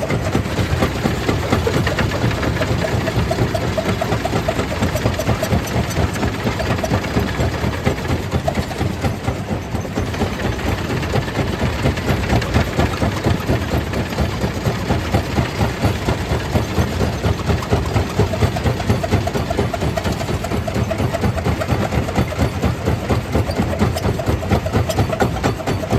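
Stone crusher plant machinery running steadily: a continuous heavy mechanical drone with a fast, regular pulsing.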